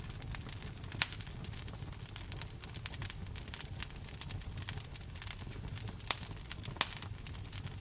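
Wood fire crackling in a fireplace: a constant run of small snaps and pops over a low rumble, with a few louder pops, one about a second in and two near the end.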